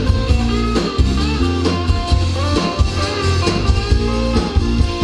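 Live band playing an instrumental passage without vocals: a guitar carries the melody with bent notes over drums and a steady low rhythm.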